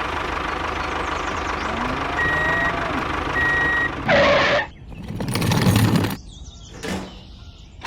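Vehicle reversing alarm giving two steady beeps over a steady vehicle-like running noise, followed by louder short bursts of noise after about four seconds.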